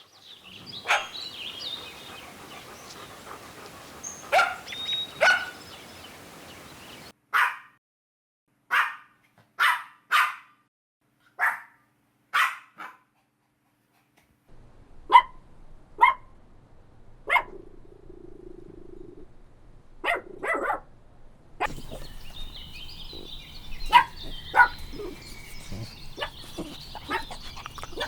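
Dogs barking: a long run of single short barks, roughly a second apart, with stretches of dead silence between some of them.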